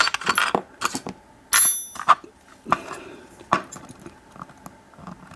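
Small steel padlock parts and hand tools being handled, giving a string of sharp clicks and clinks, with a brief high metallic ring about one and a half seconds in.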